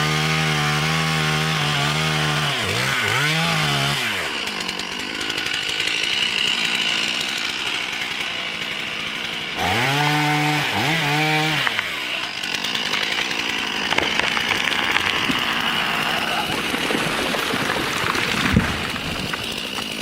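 Chainsaw revved to full throttle in bursts, in between running roughly under load as it cuts into a tree trunk. A single thud near the end.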